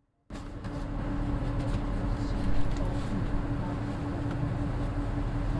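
Mitsubishi Fuso Aero Midi bus's naturally aspirated 6M61 diesel engine running steadily with a low hum, heard from inside the bus. The sound begins suddenly about a third of a second in.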